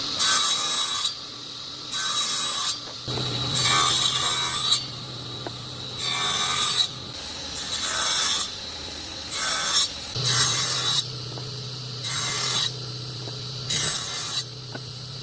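Woodworking strokes: a hand tool scraping across wood in repeated strokes, one roughly every second or so. A steady low hum comes in about three seconds in, drops out around seven seconds and returns around ten.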